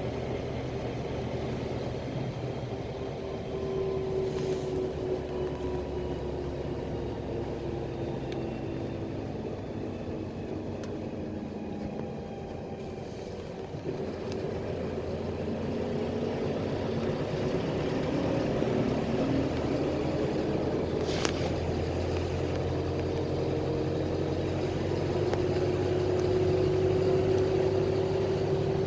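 PAZ-320405-04 Vector Next bus running, with engine and road rumble. The engine note falls slowly over the first dozen seconds, then rises steadily and grows louder through the second half as the bus speeds up.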